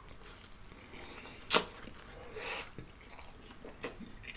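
Close-miked mouth sounds of chewing a bite of corned beef egg roll: soft wet chewing with a sharp lip smack about a second and a half in, a short breathy puff of air a second later, and a few faint clicks near the end.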